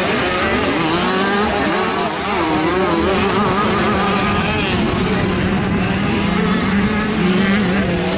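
Several 85cc two-stroke motocross bikes running together, their engine pitches rising and falling as the riders work the throttle.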